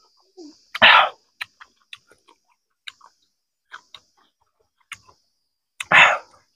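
Close-miked mouth sounds of a person eating: small wet clicks of chewing scattered through, with two louder, fuller eating noises, one about a second in and one near the end.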